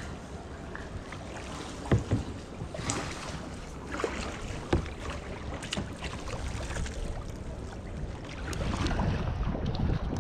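Kayak paddling on calm water: paddle strokes dipping and splashing, with a few sharp knocks, under a steady low noise of wind on the microphone.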